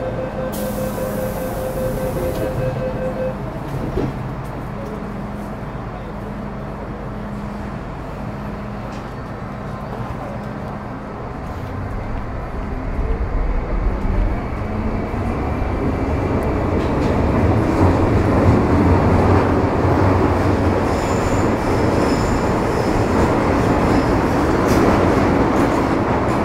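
Metro Cammell M-Train electric multiple unit with GEC GTO chopper traction running between stations, heard from inside the car. A steady electrical hum shows in the first few seconds. The rumble of wheels and motors then grows louder through the second half as the train picks up speed.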